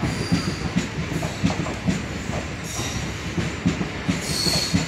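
Passenger train coaches rolling past close by, wheels clattering over the rail joints, with brief high wheel squeals, the loudest near the end.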